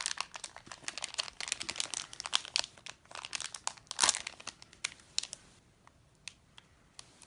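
Plastic packet crinkling and crackling as it is squeezed and handled, loudest about four seconds in, then thinning to a few scattered crackles.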